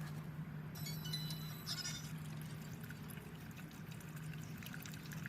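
Dex-Cool coolant being poured from a jug into the coolant reservoir, a steady pouring of liquid over a low, constant hum.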